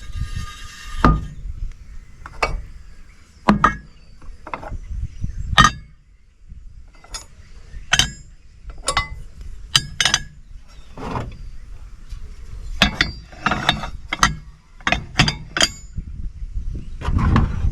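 Chunks of cast aluminum clinking and knocking as they are set one by one onto a scale to be weighed: about twenty sharp metal knocks with brief ringing, coming faster near the end.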